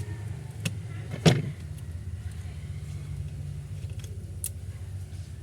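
A few sharp clicks and one louder knock about a second in, typical of small tools and parts being handled on a workbench, over a steady low hum.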